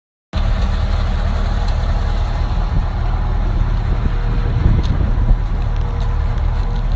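A motor vehicle's engine running steadily: a loud, even low hum with a faint steady whine above it.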